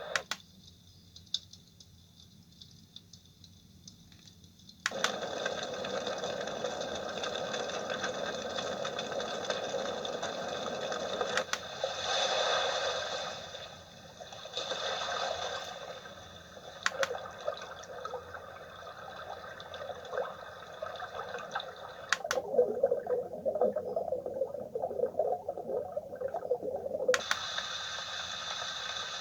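White noise machine playing its recorded soothing sounds, a steady hissing noise that changes character every few seconds, each change marked by a click as a sound is switched; one stretch near the end is crackly, like a fire.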